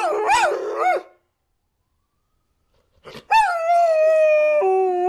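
Dogs howling: short rising-and-falling yips over a held low howl, stopping about a second in. After a pause of about two seconds, one long howl starts high, slides slowly down in pitch and drops lower near the end.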